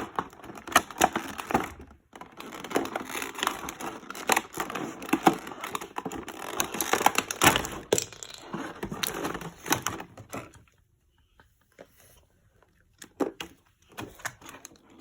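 Toy packaging being handled and opened by hand: dense crackling, crinkling and sharp clicks of plastic and card, which stop about ten and a half seconds in, followed by a few scattered clicks near the end.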